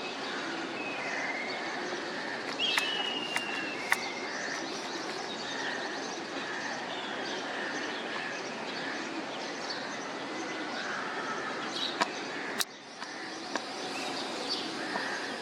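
Birds chirping and calling over a steady outdoor background noise, with one longer falling whistle about three seconds in and a few sharp clicks.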